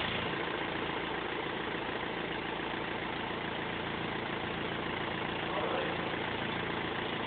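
BMW E46 320d's four-cylinder diesel engine idling steadily on its first run after an overhaul.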